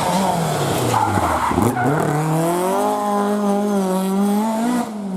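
Historic rally car's engine coming off the throttle, its pitch falling, then revving up hard at about a second and a half in and held at high revs under load, with a brief dip near the end.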